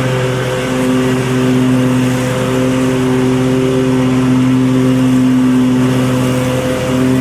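Lawn mower engine running steadily at an even speed, its pitch holding nearly constant.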